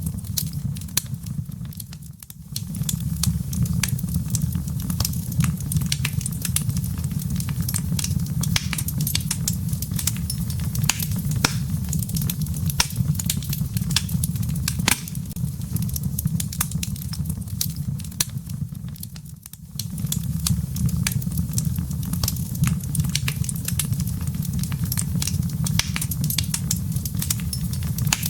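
Wood fire burning in a fireplace: dense, irregular crackling and popping over a steady low rumble of flames. It dips briefly twice, about two seconds in and again around twenty seconds.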